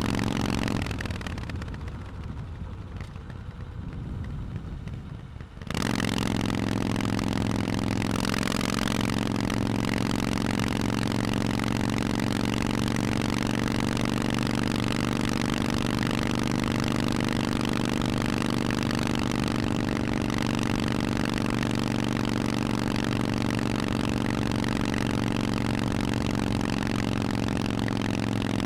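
Harley-Davidson Forty-Eight's air-cooled 1200 cc V-twin through Vance & Hines exhausts. The engine note falls away for a few seconds, then comes back abruptly about six seconds in and holds one steady, even note at constant revs.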